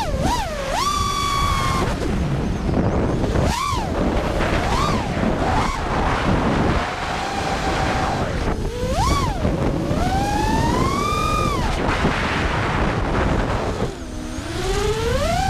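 FPV quadcopter motors whining, the pitch swooping up and down over and over as the throttle changes, over heavy wind noise on the microphone.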